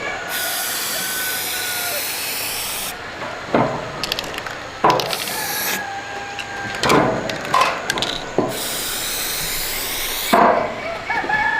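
Metalworking on an iron frame: two stretches of steady hissing tool noise of a few seconds each, with sharp metal knocks and clatter between them.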